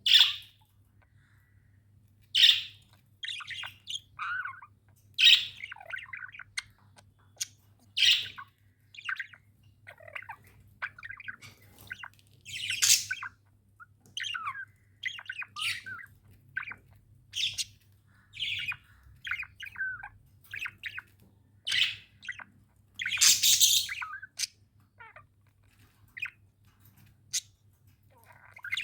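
Pet budgerigars chirping and squawking in quick, irregular short calls, with a few louder harsh squawks, the longest about two-thirds of the way through.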